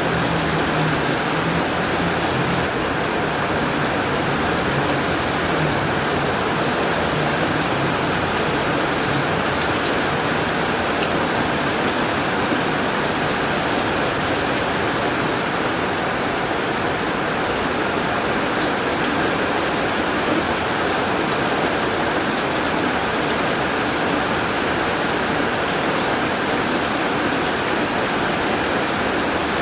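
Heavy rain falling steadily on a tin roof, a dense, even patter with scattered sharper drop ticks.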